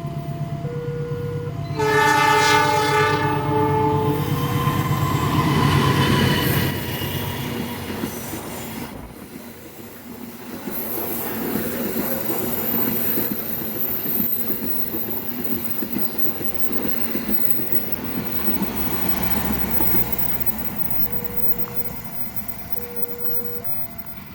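A train horn sounds one loud blast about two seconds in, lasting about two seconds, over the drone of an approaching diesel engine. The train then passes with a long rumble and wheel clatter on the rails, fading toward the end. A level-crossing warning alarm beeps in two alternating tones at the start and again near the end.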